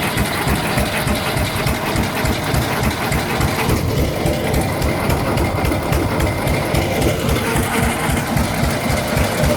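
1917 Fairbanks Morse Model Z 6 hp single-cylinder hit-and-miss engine running steadily with a rapid, even beat. It is governed to fire on every cycle, with no misses heard.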